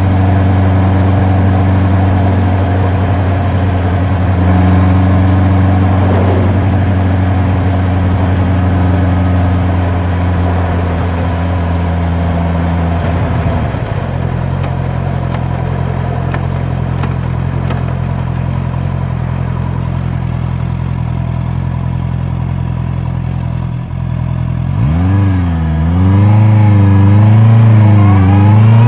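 Honda CB650R inline-four engine and exhaust under way, holding a steady note at cruise. About halfway through the note drops to a lower, steadier pitch. Near the end the engine revs up again, the pitch rising and falling several times as the rider accelerates.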